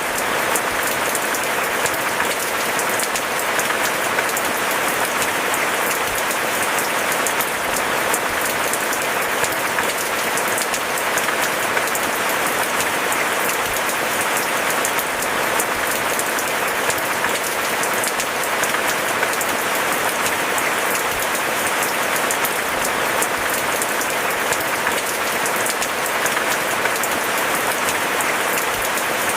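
Steady rain falling on moss-covered bamboo: a dense, even patter of many drops that holds unchanged throughout.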